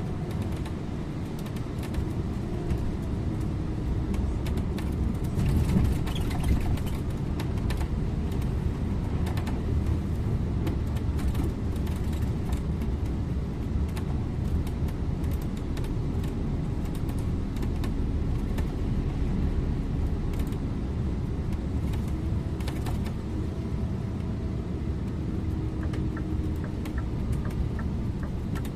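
Scania InterLink bus driving, heard from the driver's seat: a steady diesel engine and road rumble with light rattles and clicks from the cab. Near the end, an even ticking starts, typical of the turn indicator.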